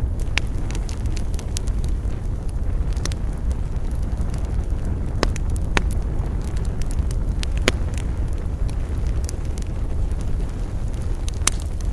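Wood campfire burning with a steady low rumble of flames and frequent sharp, irregular crackles and pops from the burning wood.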